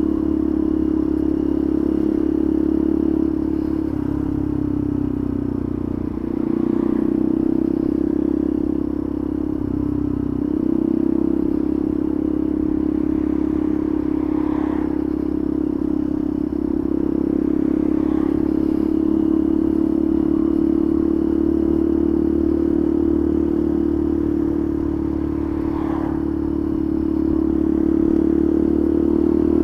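A 125 cc motorcycle engine running at a steady town-riding pace, heard from the rider's helmet with wind and road rumble underneath. The engine note dips and picks up again a few times in the first third as the throttle eases and opens.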